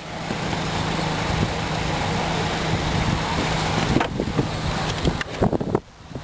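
Saturn VUE's engine idling steadily, with a constant low hum under a noisy wash, a few light knocks around four to five seconds in, and a sudden brief drop in level near the end.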